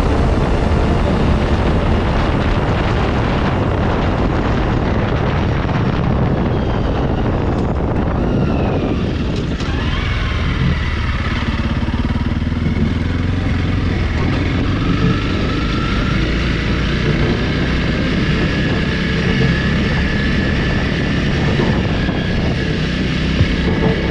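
Honda CRF300L's single-cylinder four-stroke engine running under way, with heavy wind rush on the microphone. About nine seconds in the wind noise drops away, leaving the engine note rising and falling with the throttle.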